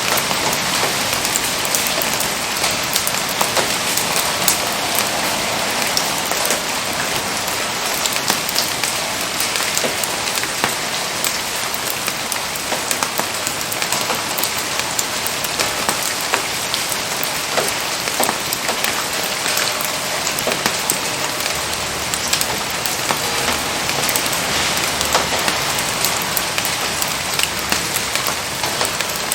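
Steady rain falling, an even hiss scattered with many small sharp drop ticks.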